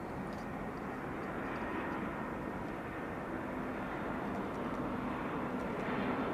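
Airbus A320-214 airliner's CFM56 jet engines running: a steady rumble and hiss with faint steady tones, growing slightly louder near the end.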